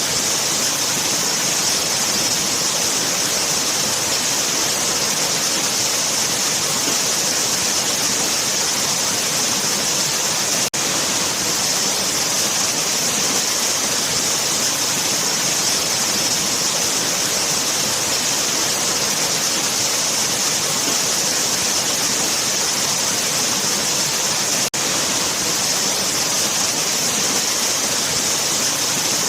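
Waterfall rushing in a steady, dense hiss of falling water, brightest in the high range. It drops out for an instant twice, about 11 and 25 seconds in.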